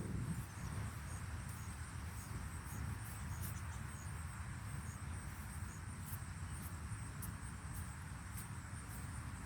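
Insects, crickets by the sound of it, making a steady high trill with faint short ticks, over a low background rumble.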